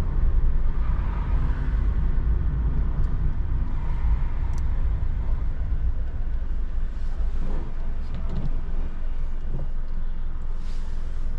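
Car cabin noise while driving in rain: a steady low rumble of engine and tyres on the road, with a few faint clicks.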